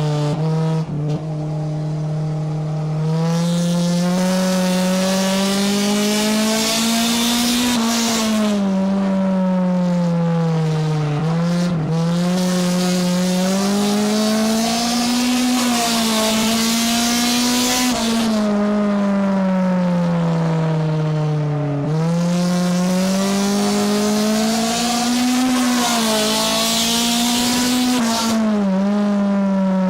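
Race car engine heard from the passenger seat inside the car, lapping a short oval. Revs climb through each straight and drop off into each turn, about three times, with a hiss of wind and tyre noise whenever the revs are high.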